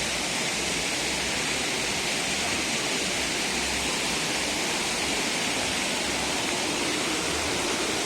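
Waterfall in monsoon flow, a steady, loud rush of falling water.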